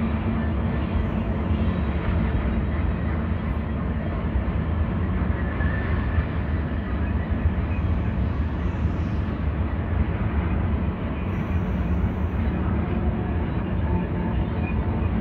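Freight train of tank cars and covered hoppers rolling past, a steady rumble of steel wheels on rail.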